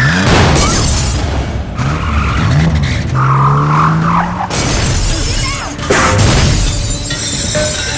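Action-film sound effects over a dramatic film score: a sudden loud crash with shattering glass, followed by further impacts about halfway through and again near the six-second mark.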